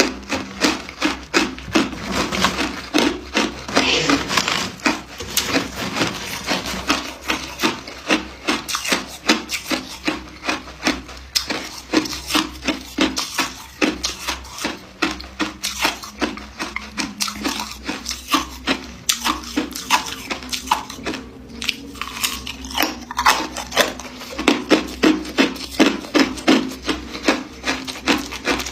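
Ice being chewed and crunched between the teeth, close to the microphone, in a quick, steady chewing rhythm of about three crunches a second.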